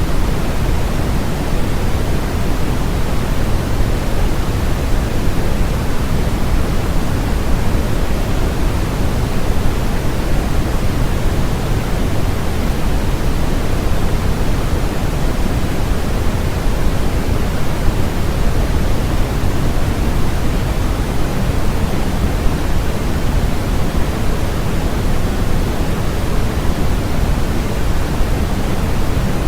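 Steady generated noise played as a white-noise sleep track: an even, unchanging hiss, heavier in the low end than the highs.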